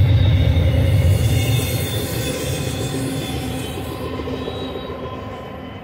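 Double-stack intermodal freight train's last cars rolling past: a steady rumble of wheels on rail that fades away over the last few seconds as the end of the train recedes, with a faint steady whine above it.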